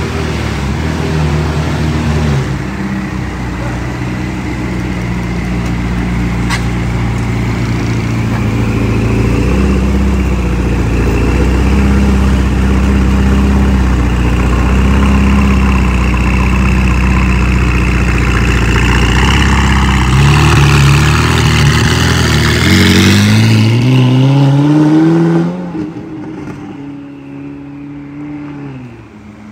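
Lamborghini Aventador Ultimae's naturally aspirated V12, fitted with a Gintani exhaust, running steadily for about twenty seconds. It then revs up, the pitch climbing for a few seconds, before the sound drops away abruptly near the end.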